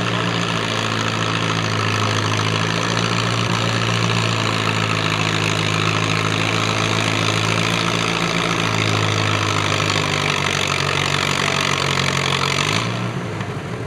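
Antique farm tractor engine running hard under load as it pulls the weight sled, a steady, loud drone that drops off sharply near the end as the pull ends.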